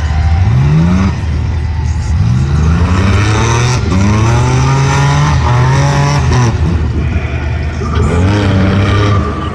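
Side-by-side UTV race engines revving hard on a dirt track, the engine note climbing in pitch and dropping back again and again as the throttle is worked and let off.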